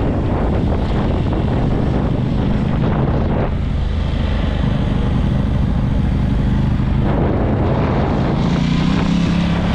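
Aprilia RS660's parallel-twin engine running steadily at low revs as the bike rolls slowly at about 25 km/h; the engine note rises a little near the end.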